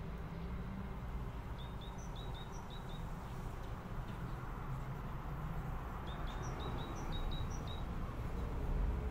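Small songbird chirping: short, high, quick notes in two runs of about six, over a steady low background rumble.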